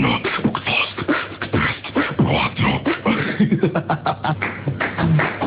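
A person beatboxing and imitating sounds with the mouth: a fast run of clicks, pops and percussive mouth noises, with short hummed tones mixed in.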